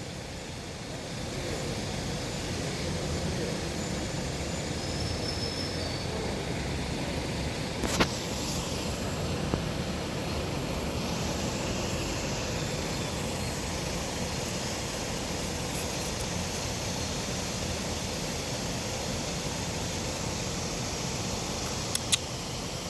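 Steady outdoor background rumble and hiss, with a sharp click about 8 seconds in and two quick clicks near the end.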